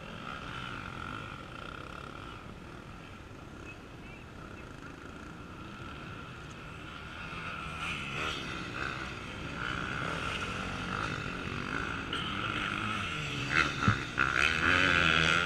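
Off-road racing motorcycle engines, faint and distant at first, growing louder through the second half as a bike comes close, with a few sharp revs near the end.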